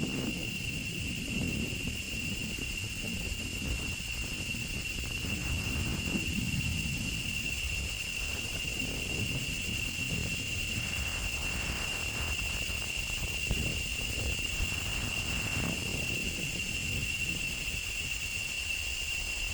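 Male cicadas singing in chorus: a steady, unbroken high-pitched drone, with a low rumble underneath.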